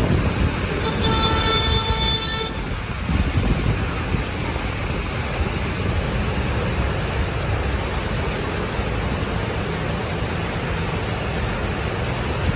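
Gusty typhoon-trough wind buffeting the microphone, a steady rumble and hiss. About a second in, a horn-like tone sounds for about a second and a half.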